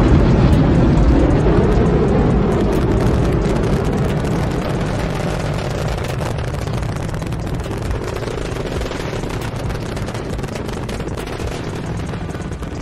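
Space Shuttle launch roar: a deep, crackling rocket rumble that eases down over the first few seconds and then holds steady.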